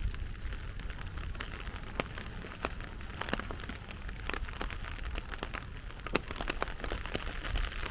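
Heavy rain falling steadily, with many irregular sharp taps of large drops landing close by.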